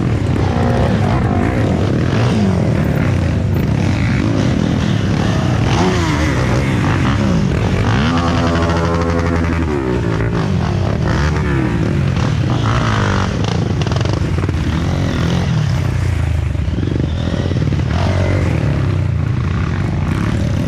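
Several off-road trail motorcycle engines running and revving together, their pitches rising and falling unevenly.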